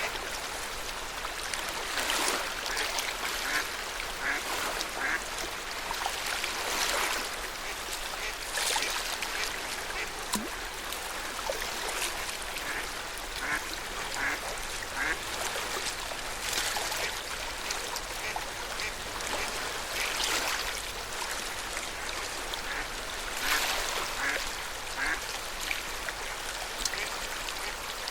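Lake water lapping and splashing against the shore, with small waves breaking every two to three seconds and little gurgles and plops between them.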